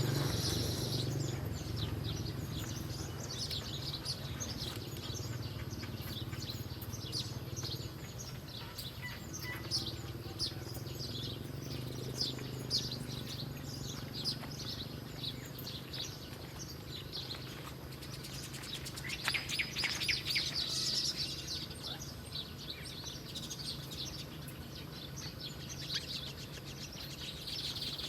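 Small birds chirping in short, high, repeated notes, with a denser flurry of calls about two-thirds of the way through.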